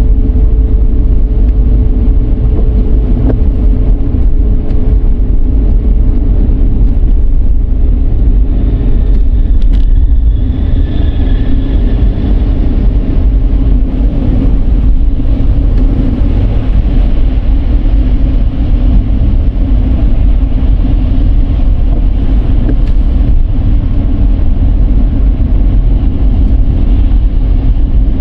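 Dodge Charger 3.5 V6 driving through city streets: a loud, steady road and engine rumble. A faint steady tone fades out about halfway through.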